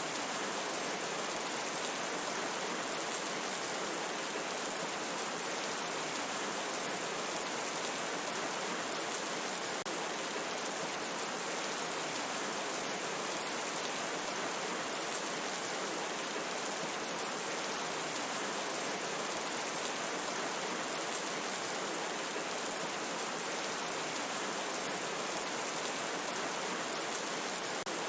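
Steady rain falling, an even hiss with no thunder or single drops standing out.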